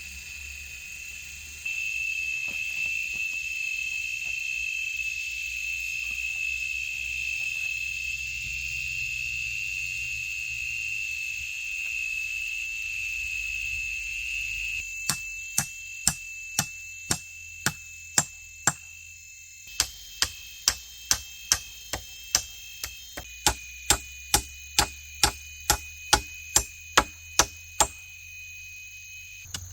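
Rainforest insects trilling steadily at a high pitch. About halfway through, a blade starts chopping bamboo in sharp, regular strokes, about two a second, with one short pause.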